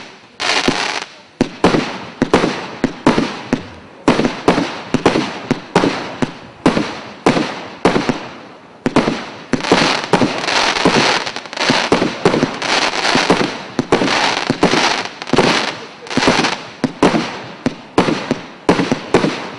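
GWM 6102 fireworks battery (cake) firing its shots in quick succession, about two a second, each a sharp report with a fading crackling tail. The shots come thickest in the middle stretch.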